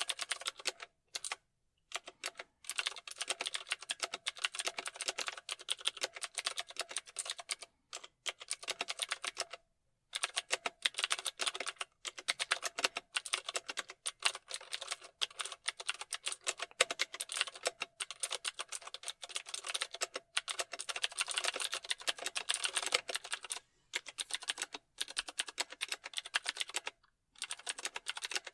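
Fast typing on a computer keyboard: rapid runs of key clicks with brief pauses between bursts.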